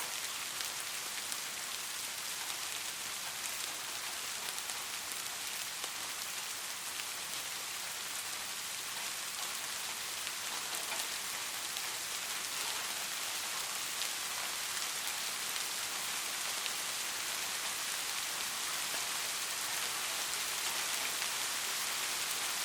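Light rain falling steadily, an even hiss dotted with many small drop ticks.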